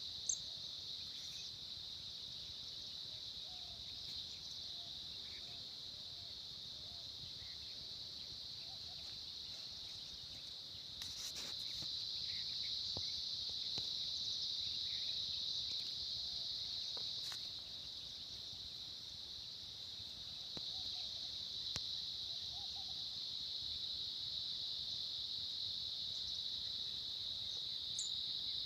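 Steady high-pitched insect chorus, an unbroken drone that swells slightly about halfway through, with a few faint short chirps and clicks over it.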